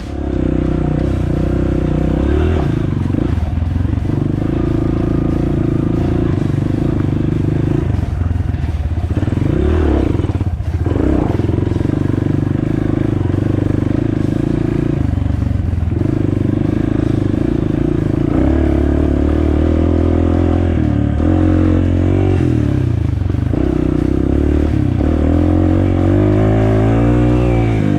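Honda CRF230F dirt bike's single-cylinder four-stroke engine running under way, its note rising and falling with the throttle, dipping briefly about ten seconds in and revving up in rising sweeps near the end, with some clatter.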